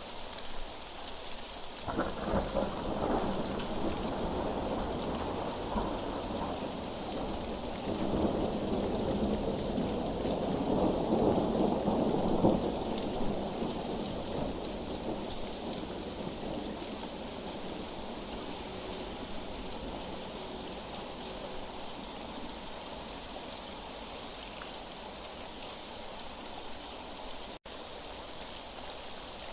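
Steady rain with a long roll of thunder that breaks about two seconds in, peaks around twelve seconds, then rumbles away. The rain hiss carries on alone to the end, with a momentary dropout near the end.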